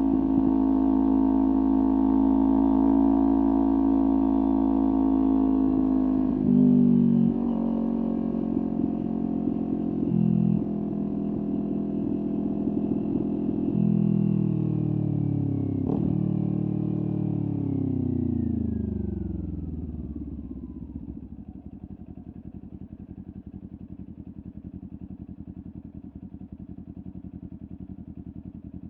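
Kawasaki Ninja 400 parallel-twin engine with a LeoVince aftermarket exhaust, running at a steady speed at first, with two brief changes in the engine note. Its engine speed then falls over several seconds as the bike slows, settling into a lower, quieter, even idle about two-thirds of the way through.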